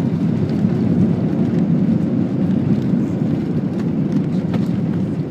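Steady low rumble of an Airbus A320's engines and rushing air, heard from inside the passenger cabin.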